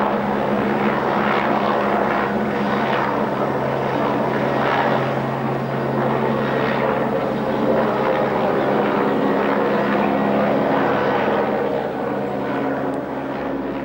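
An engine running steadily, a constant low hum under a dense mechanical wash, easing off slightly near the end.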